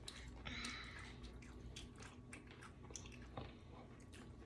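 Faint close-up chewing of food, with scattered small mouth clicks and smacks and a brief rustle about half a second in.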